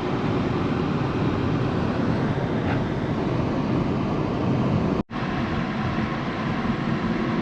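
Steady road and wind noise inside a moving car with a window open. The sound drops out for an instant about five seconds in.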